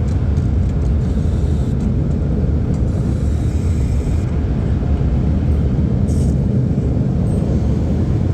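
Steady low rumble of car wash machinery running around a car, with no breaks.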